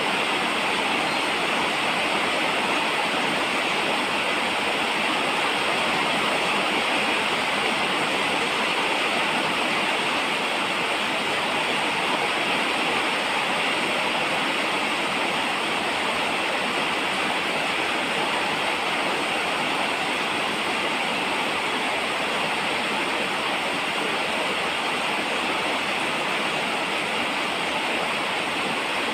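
Steady rain falling, an even hiss that does not change, with no single drops, thunder or other events standing out.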